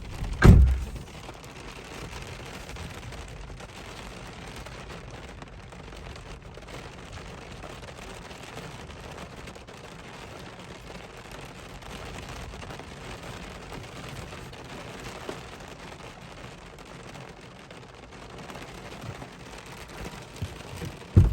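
Steady rain and wind, with a loud deep thump about half a second in, like a gust or a knock hitting the microphone.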